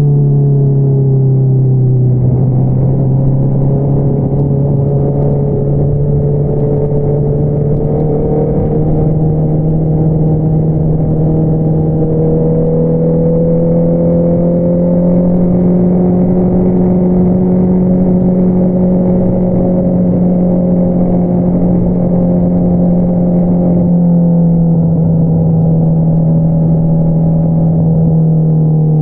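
2022 Honda CBR650R's inline-four engine through an Akrapovič single-outlet exhaust, running under way at steady mid revs. The pitch climbs gradually over the first half, holds, then eases off near the end.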